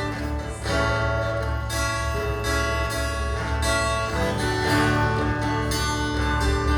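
Worship music with guitar over a steady bass line. The chords change about half a second in and again about four seconds in.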